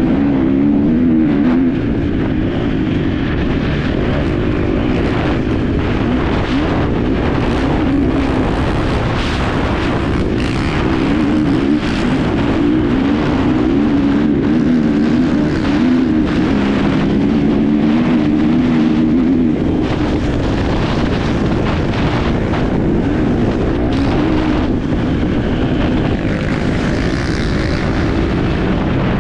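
Enduro motorcycle engine heard from on board while riding, its pitch rising and falling continually with the throttle. Many short knocks and a constant rumble run through it.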